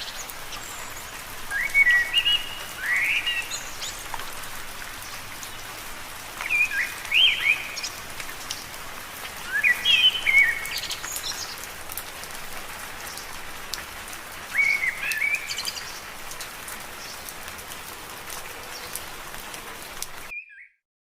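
Steady rain falling on leaves, with a bird singing short phrases of quick chirping notes every few seconds. The whole sound cuts off suddenly near the end.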